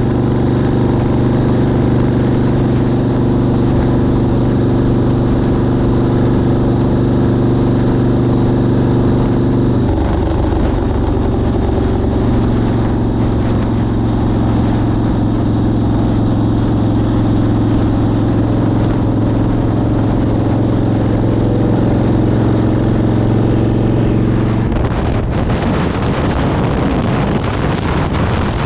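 Motorcycle engine running steadily at road speed, its note shifting about ten seconds in as from a gear change. Near the end the engine note fades under a loud rush of wind on the microphone.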